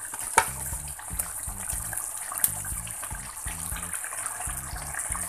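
Ground chilli, shallot, garlic and turmeric paste sizzling and bubbling in hot oil in a wok, a steady frying hiss. A single sharp tap sounds about half a second in.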